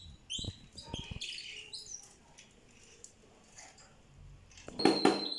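Small songbirds chirping in short, quick calls, with a few light clicks among them in the first couple of seconds. Near the end comes a louder, busier stretch of sound with a held high whistle-like note.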